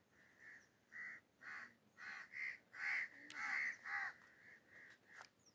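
A bird calling over and over in short, faint calls, about two a second.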